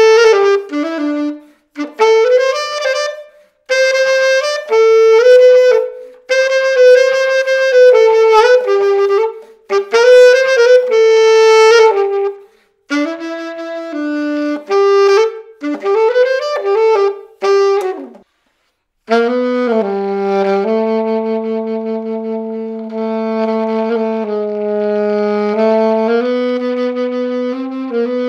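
A freshly overhauled Selmer Mark VI alto saxophone played solo in phrases of quick melody broken by short pauses. In the last third it slows to long held notes in its low register, played softer.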